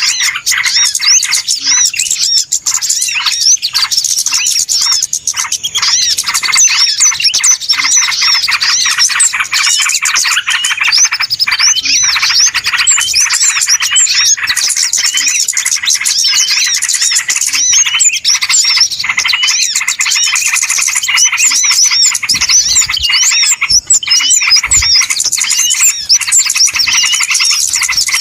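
Dense, unbroken twittering of many small birds, short high chirps overlapping one another. It is a busy, noisy bird-lure (pikat) call recording used to draw small birds in.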